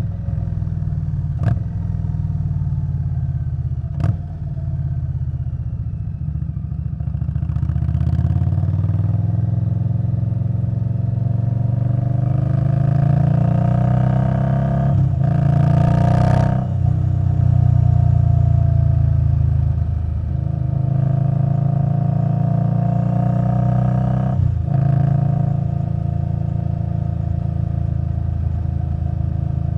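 2021 Indian Scout Bobber Twenty's V-twin engine running through a V&H Twin Slash exhaust while riding. It climbs in pitch under acceleration around the middle, with several brief breaks in the engine note, then settles to a steady cruise.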